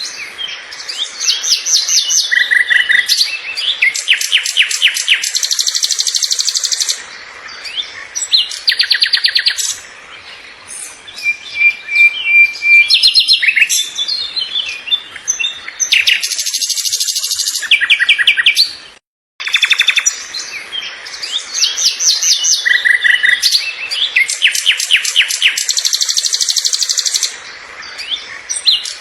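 Birdsong: a run of fast high trills and chirps from several calls. It cuts out for a moment about 19 seconds in, and then the same stretch of song starts over, as a looped recording does.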